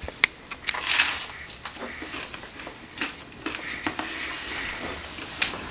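Eating a buttered slice of home-baked Russian dark rye bread: a crunchy bite about a second in, then chewing with scattered crisp crunches and clicks.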